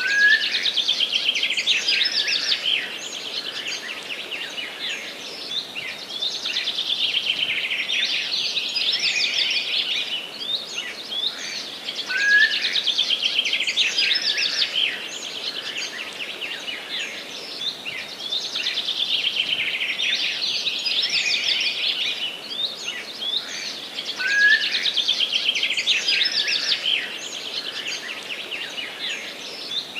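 Small songbirds singing in a forest, a dense mix of rapid trills and chirps. The same stretch of song recurs about every twelve seconds, the sign of a looped recording.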